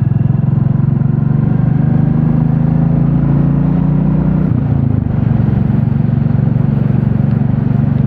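Royal Enfield Classic 350's single-cylinder engine running while the motorcycle is ridden, its note creeping slowly up and then dropping about four and a half seconds in.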